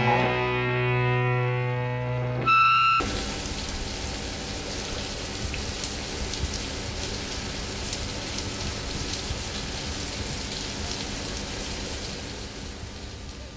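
The last chord of a rock song rings out and cuts off about three seconds in, followed by the steady patter of rain falling, which slowly fades.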